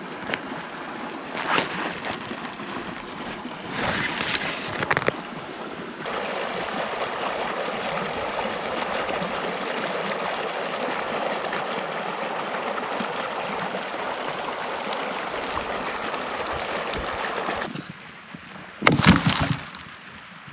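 Mountain stream running, a steady rush of water that sets in about six seconds in. Before that the water is quieter, with a few brief louder noises. Near the end the water drops away and there is one short loud burst of noise.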